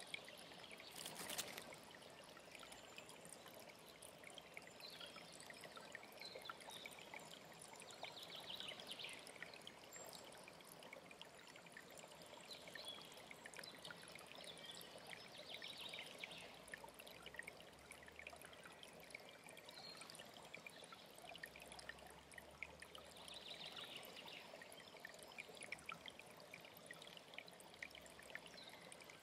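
Faint mountain stream trickling and pouring steadily, with short bird calls every few seconds above it. A single brief click about a second in.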